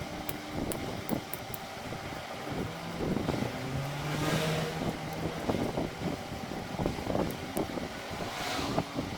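Motor vehicle noise with scattered knocks, a brief steady low tone, and two swells of hiss that rise and fall about four and eight and a half seconds in.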